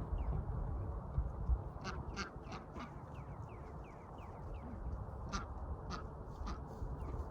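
Domestic ducks quacking: a quick run of about four quacks, then three more a few seconds later. A steady series of short, high, falling chirps and a low rumble run underneath.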